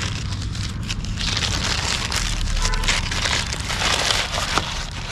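Rustling and crinkling handling noise, loudest in the middle, over a low rumble.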